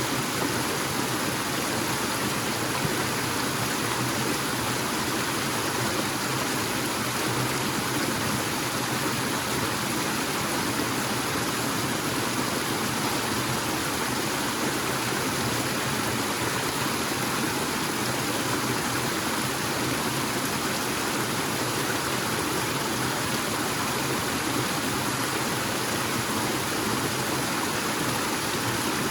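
Waterfall splashing steadily in a forest stream: a constant, even rush of falling water.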